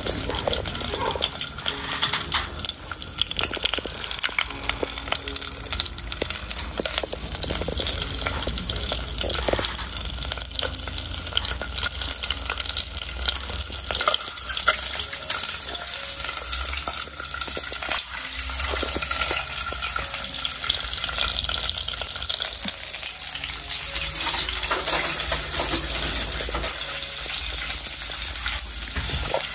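Scorpions and garlic frying in hot oil in a metal pot, a steady sizzle with many small crackles and pops.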